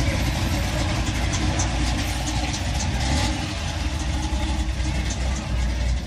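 A car engine running steadily at idle, a continuous low rumble.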